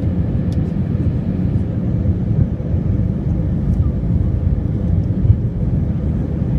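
Steady low rumble inside an Airbus A319 airliner's cabin on approach, engine and airflow noise with a faint steady hum.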